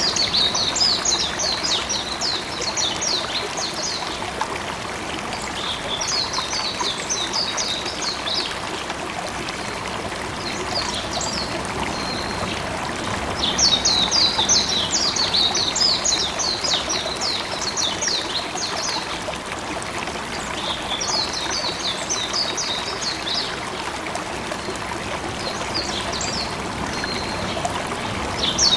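Steady rush of running water, with a bird singing short, rapid, trilling high phrases every few seconds.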